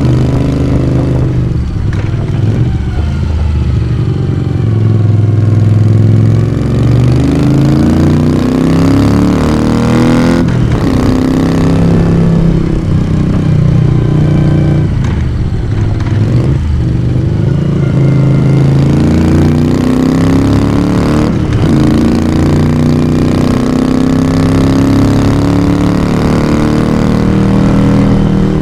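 1982 Moto Guzzi V35's air-cooled 90-degree V-twin running under way, its exhaust note rising in pitch as the bike pulls and dropping at each gear change, several times over.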